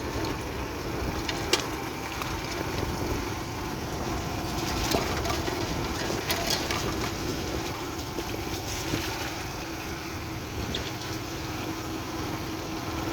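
Motorbike engine running steadily while riding, under a steady low rumble of wind on the microphone, with a few brief knocks.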